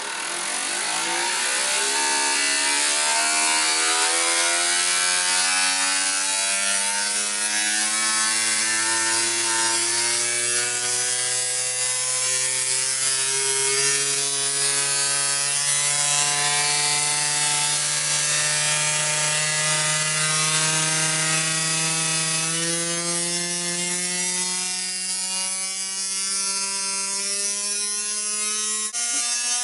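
LEGO Technic piston engine model driven by a 24 V drill motor, spinning up to high speed. Its whine rises steeply in pitch over the first few seconds, then climbs slowly and settles into a steady fast run over a dense mechanical clatter.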